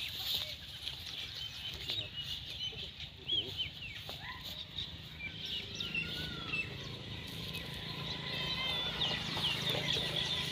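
Small birds chirping and calling repeatedly, with a low steady hum underneath and one or two faint knocks.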